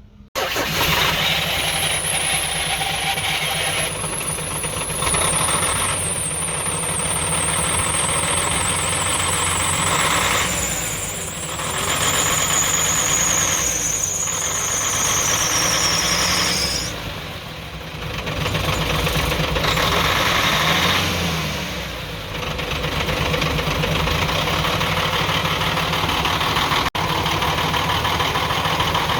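Nissan PF6 straight-six diesel truck engine starting and running, its speed dipping and picking up again a few times; the engine is missing (misfiring), a fault later traced to the number 5 plunger of the injection pump. Over the first part a thin high-pitched squeal slowly falls in pitch and stops.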